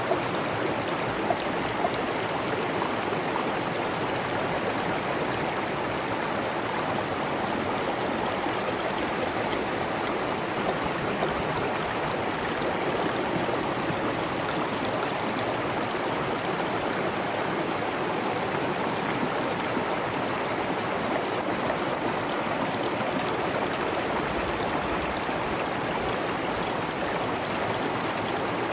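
Steady running water of a stream, a constant rushing babble.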